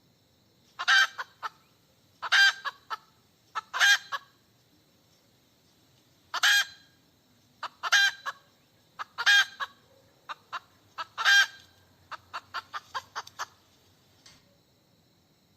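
Hen cackling: runs of short clucks, each ending in a long, loud squawk, about seven times over, then a quick string of short clucks near the end. The uploader takes it for a hen calling for a mate.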